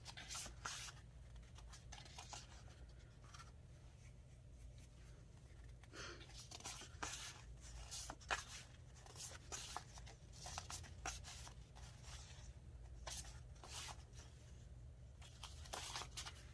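Quiet, scattered rustles and scrapes of paper pieces being handled and sorted, over a low steady hum.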